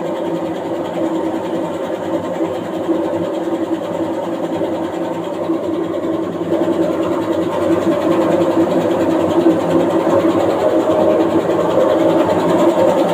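Washing machine running, its motor and drum making a steady mechanical hum with a few held tones that gets louder about seven seconds in, the machine shaking in place during the spin. The owner puts the shaking down to a fault in the drum's suspension springs.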